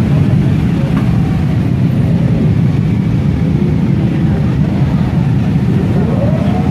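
Motorcycle engines running, a steady low rumble with no breaks.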